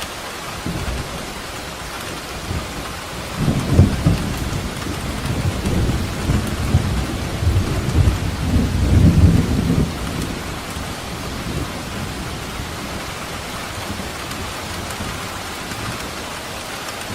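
Steady heavy rain with a long roll of thunder rumbling from about three seconds in to about ten seconds, loudest near the start and again near its end, then easing back to rain alone.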